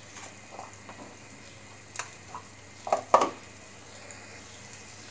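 Faint steady sizzle of a potato, onion and egg filling frying in a pan. Over it come a few light clicks and knocks of kitchen utensils, the loudest pair about three seconds in.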